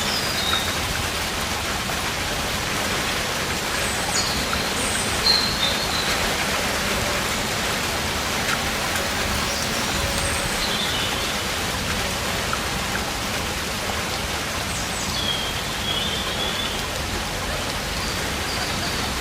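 Steady rain falling, a constant hiss, with a few short high chirps that slide in pitch now and then.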